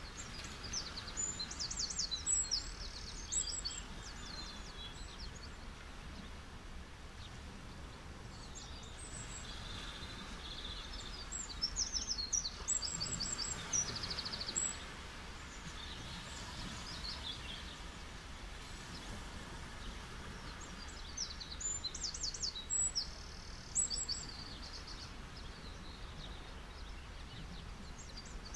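Steady wash of gentle sea waves on a beach, with a songbird giving clusters of rapid, high chirping three times, about a second in, near the middle and about three-quarters through.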